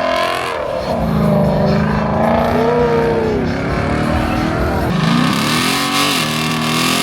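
Car engines revving, the pitch climbing and falling, with a fresh rev starting about five seconds in.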